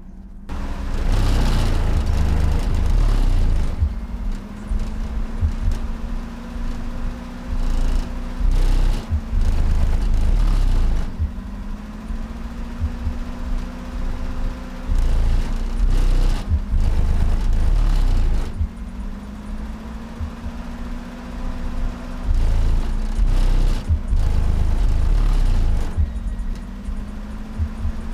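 Truck's car-audio subwoofers playing a deep sub-bass track at high power. The low bass swells in loud sections every three to four seconds, each opening with a tone that slides up, with scattered crackles over it.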